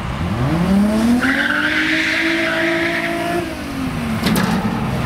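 A car engine accelerating hard down a drag strip, climbing steeply in pitch, then falling in pitch as the car goes past. A high rushing hiss rides over it for about two seconds.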